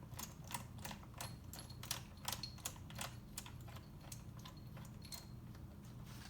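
Ratchet wrench clicking in quick strokes, about three or four clicks a second, as a bolt on the jet pump case is run down. The clicks thin out near the end.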